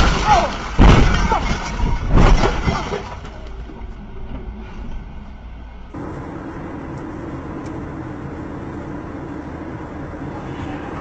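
Vehicle collision: three loud impacts in the first three seconds, fading out. About six seconds in it cuts to the steady engine and road noise of a moving vehicle.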